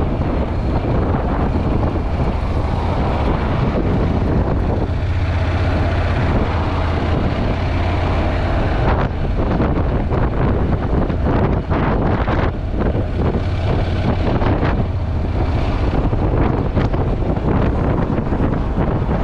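Heavy wind buffeting a GoPro's built-in microphone on a moving motorcycle, a steady rushing noise with the motorcycle's running sound underneath.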